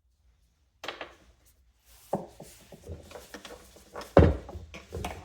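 Knocks, scrapes and clatter of a box fan's parts being handled and worked loose during disassembly, starting about a second in, with the loudest knock about four seconds in.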